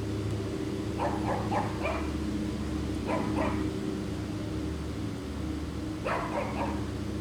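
An animal's short calls in quick runs of three or four notes, heard three times, over a steady low hum.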